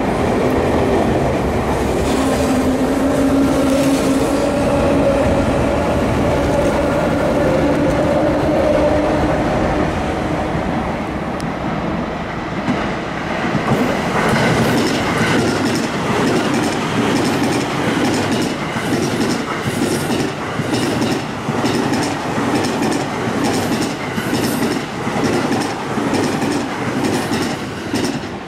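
An electric commuter train running at the station. Its motors hum with a tone that rises slightly in pitch over the first ten seconds or so. From about halfway through, a steady rhythm of wheels clacking over the rail joints takes over.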